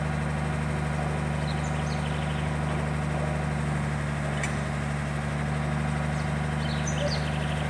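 A motor running at a steady speed, a low even hum, with faint short high chirps about two seconds in and again near the end.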